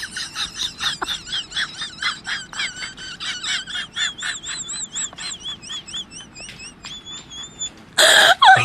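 A bird chirping quickly and high, about five chirps a second, the notes turning into a wavy warble in the middle. A loud rush of noise cuts in near the end.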